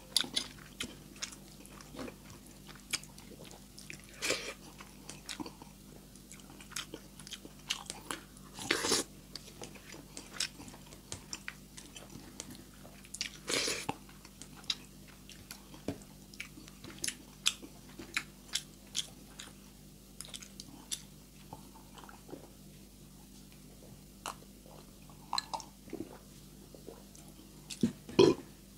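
Close-miked chewing of rice and canned sardines eaten by hand, with many short wet mouth clicks and smacks, a few of them louder.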